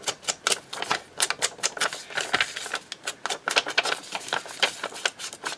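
Ink pad being dabbed and rubbed along the edges of paper: quick, irregular taps and scuffs, several a second.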